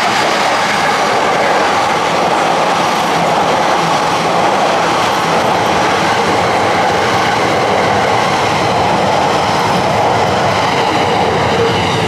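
JR East E657 series limited-express electric train passing through the station without stopping, a loud, steady rush of wheel and track noise.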